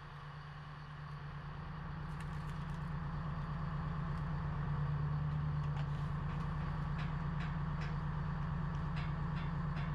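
A crane's engine running steadily, growing louder over the first few seconds as the crane lifts its load, with faint ticks and rattles on top.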